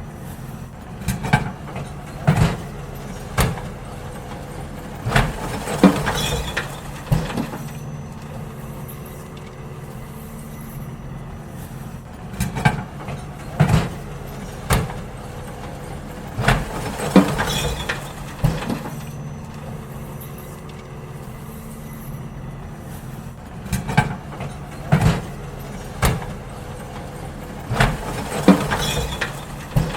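Garbage truck engine running steadily while bins are emptied, with groups of loud knocks and clanks every few seconds as the bins are tipped and banged against the lifter.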